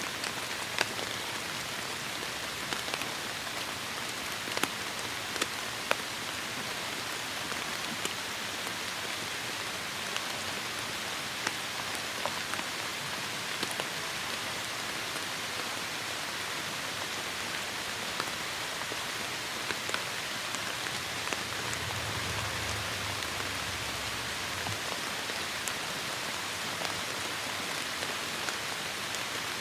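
Heavy rain falling steadily, with scattered sharper drops striking close by. A brief low rumble comes about three-quarters of the way through.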